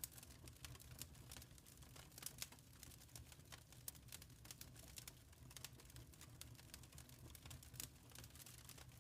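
Faint wood fire crackling: irregular small pops and snaps over a low, steady rumble.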